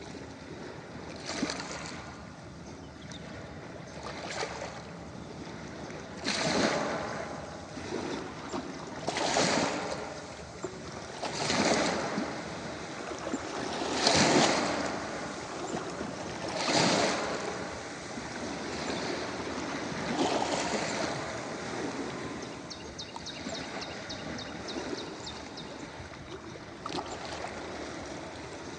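Small ocean waves breaking and washing in, a fresh surge every two to three seconds, with a fine fizzing crackle toward the end.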